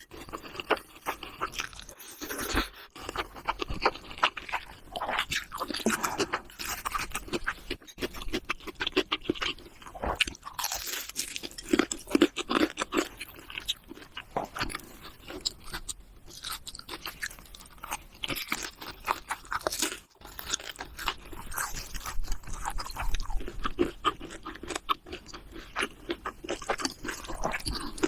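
A person biting and chewing crunchy food, a continual run of sharp, irregular crunches.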